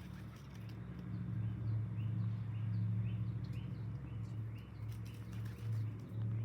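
Domestic pigeons cooing in a low, wavering drone, with short high chirps about three times a second and a few scattered clicks.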